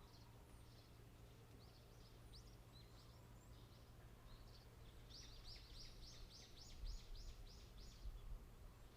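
Faint songbird calls: scattered short chirps, then from about five seconds in a run of about a dozen quick, evenly spaced downward-sweeping notes, about three a second.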